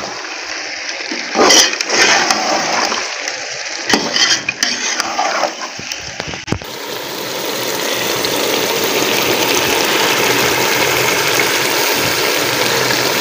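Chicken and shredded vegetables frying in a steel pot. A metal slotted spoon scrapes and clinks against the pot a few times. About six and a half seconds in, a steady sizzle takes over.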